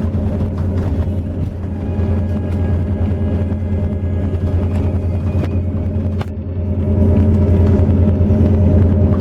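Intercity bus engine and road noise heard from inside the coach: a steady low drone. There is a brief knock about five and a half seconds in, and the drone grows louder from about seven seconds in.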